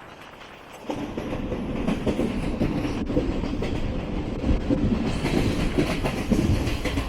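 Garib Rath Express coach running at speed: wheels clattering on the rails and the coach rattling. The noise jumps sharply louder about a second in and stays loud.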